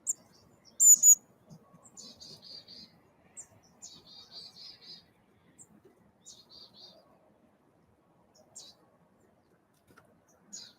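Wild birds calling. Two loud, sharp, high calls come about a second in, followed by several short runs of rapid buzzy notes spread through the rest.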